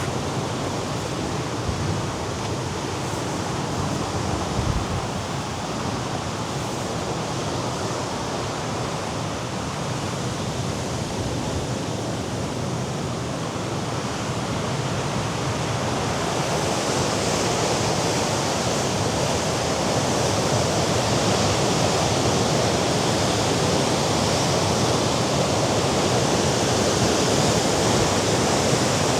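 Mediterranean surf washing against the rocks below the cliffs, a steady rush mixed with wind. It grows a little louder and hissier about halfway through.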